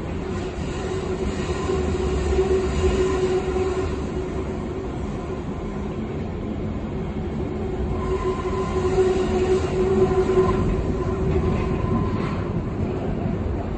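Berlin U-Bahn train on line U3 running along the track: a steady rumble with a whining tone that swells twice.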